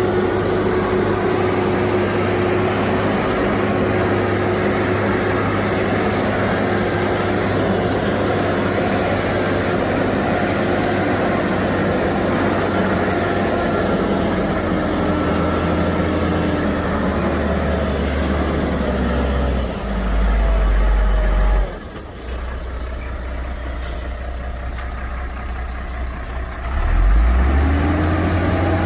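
Heavy diesel engine of earthmoving machinery running under load, its pitch easing down partway through. A louder low rumble about twenty seconds in cuts off abruptly, the running goes on quieter, and the engine revs back up near the end.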